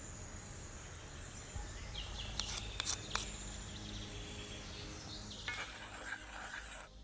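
Outdoor ambience: a steady high insect chirping with some bird calls, and a few sharp clicks a little under halfway through.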